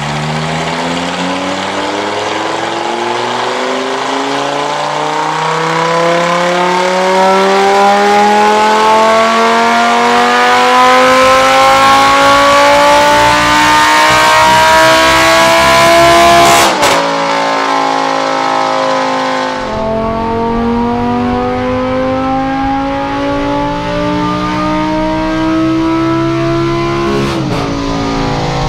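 Lamborghini Gallardo Superleggera V10 with a Tubi Style exhaust at full throttle on a dyno, its revs climbing steadily in a long pull. The revs drop sharply about two-thirds of the way in, then climb again in a second pull that cuts off near the end.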